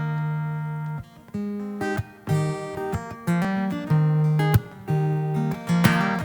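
Carbon fiber acoustic guitar strumming chords as an instrumental intro, with sharp percussive hits between the chord changes.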